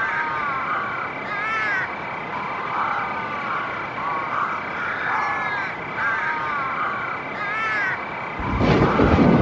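Repeated short, arching animal calls over a steady, pulsing high tone. About eight and a half seconds in, a louder low rumble starts.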